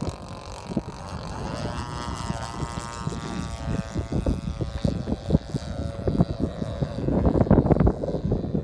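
Engine of a radio-controlled model airplane in flight, a steady pitched drone that fades out about halfway through. Wind buffets the microphone, growing stronger near the end.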